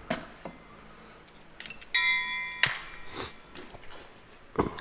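Steel tractor PTO parts being handled: a few light metallic clicks, then about two seconds in a metal part is struck or set down and rings clearly for just under a second before the ring cuts off suddenly. A couple more clicks follow near the end.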